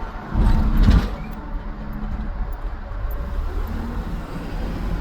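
Tow truck driving, heard from inside the cab: a steady low engine and road rumble, with a short louder surge about half a second in.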